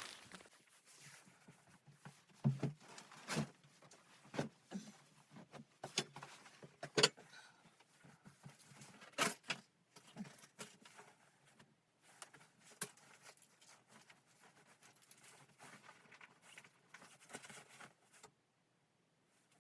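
Irregular knocks, clicks and clatter at uneven spacing, a few louder than the rest, stopping abruptly near the end.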